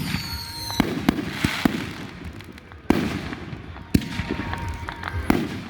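Fireworks display: aerial shells bursting, several sharp bangs over a few seconds, the loudest about three and four seconds in, over a low rumble.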